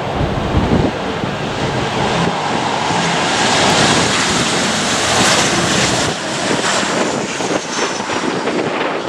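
Boeing 737-800's CFM56-7B jet engines running loud as the airliner comes in to land, swelling to a peak midway and then easing, with a faint falling whine near the end. Wind buffets the microphone.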